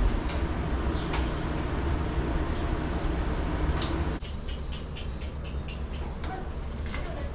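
A motor running with a steady low hum that cuts off suddenly about four seconds in. Scattered clicks and knocks come throughout.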